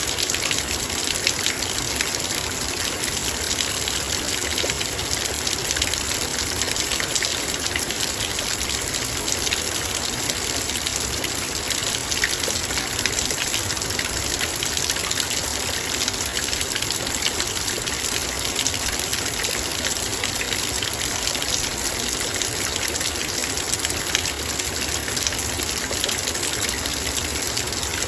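Heavy rain falling on a metal bowl: a dense, steady patter of countless drops hitting the metal over an even hiss of rain.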